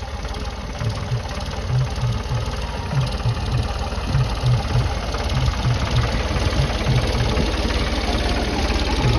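Ford 3600 Turbo tractor's three-cylinder diesel engine running steadily.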